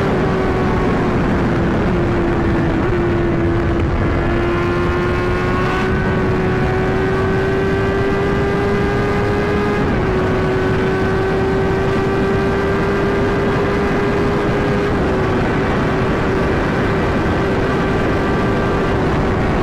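Motorcycle engine held at a steady high speed on the highway, its pitch dipping slightly now and then, with heavy wind rush.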